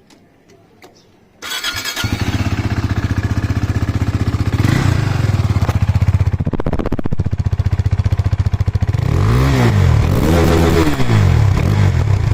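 KTM RC 390's single-cylinder engine with its stock exhaust, dB killer still fitted, starting up about a second and a half in and idling with a steady pulse, then revved up and down a few times near the end.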